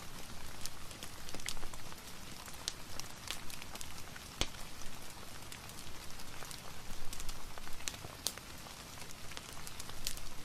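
Rain and a crackling wood fire together: a steady hiss of rain under irregular sharp pops and ticks, a few a second.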